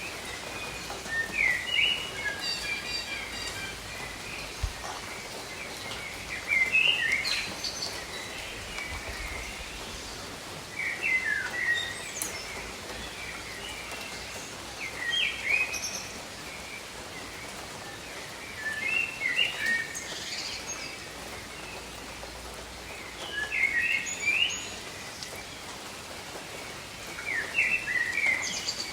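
Steady rain hiss with a bird singing a short chirping phrase over it, repeated about every four seconds, seven times.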